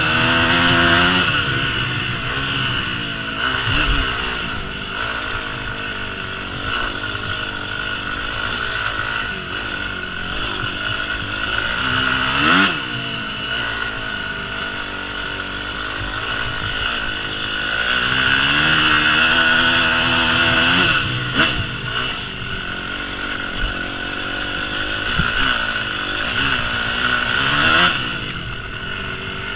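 Yamaha YZ250F single-cylinder four-stroke dirt bike engine under way off-road, revving up and down through the gears, with sharp rises in pitch about halfway through and twice near the end.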